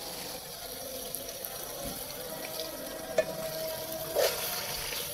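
Chicken and greens masala sizzling in an aluminium pot as it is stirred with a slotted metal spoon, with a couple of knocks of the spoon against the pot in the second half.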